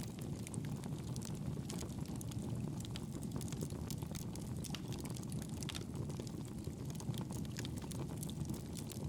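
Campfire burning: a steady low rush of flame with frequent small crackles and pops from the burning wood.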